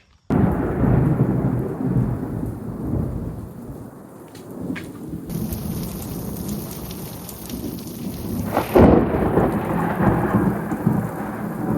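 Thunderstorm: steady rain with rolling thunder and a loud, sharp thunderclap about nine seconds in.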